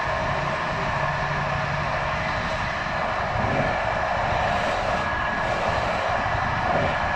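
Passenger train running along the line, heard from the rear of the train: a steady rumble of wheels on rails with a constant high whine over it.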